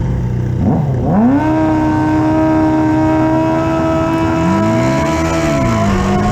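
Drag-racing motorcycle engine revved up sharply about a second in and held at a steady high rpm for the launch. A second engine rises and falls in pitch near the end.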